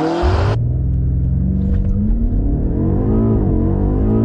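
BMW M8 Competition's 4.4-litre twin-turbo V8 accelerating flat out from a launch-control start, its pitch climbing and dropping back at each upshift of the eight-speed gearbox. It is heard from outside at first, then from inside the cabin about half a second in.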